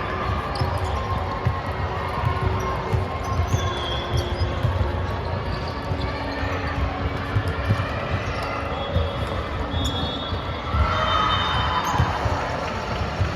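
Volleyballs thumping and bouncing on a hard gym floor, repeatedly, amid indistinct voices; the background noise swells near the end.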